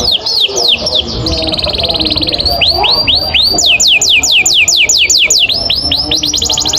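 Canary singing a long rolling song: a run of quick, falling whistled notes, broken about a second in by a fast rattling trill, then settling into a rapid, even series of down-slurred notes, several a second.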